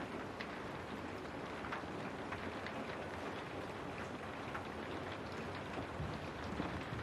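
Steady rain: a constant hiss with individual drops tapping on a window pane now and then.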